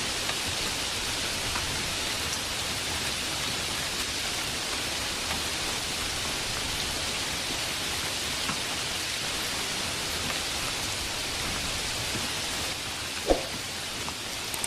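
Steady heavy rain, an even hiss of many drops without let-up, with one short sharp knock near the end.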